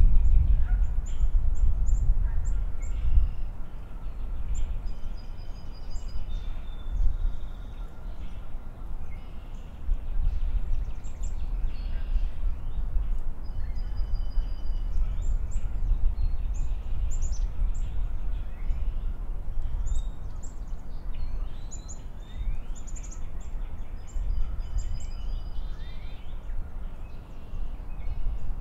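Birds chirping close by: many short, high chirps and a few brief whistled notes, scattered irregularly throughout, over a steady low rumble.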